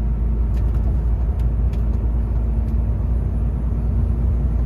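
Steady low drone of a Volvo semi-truck's diesel engine and tyres heard from inside the cab while driving, with a constant hum and a few faint ticks.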